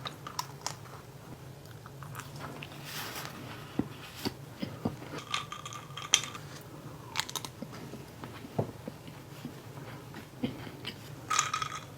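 Close-up chewing and biting of refrigerated mini chocolate frosted donuts: the cold chocolate coating crunches, with many small wet mouth clicks and smacks scattered through.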